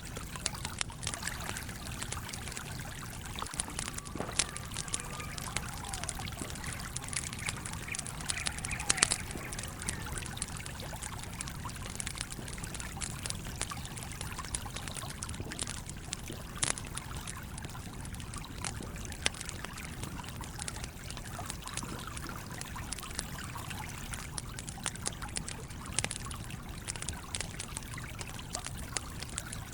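A small stream trickling and pouring steadily, with a wood campfire's crackles and pops breaking in irregularly throughout.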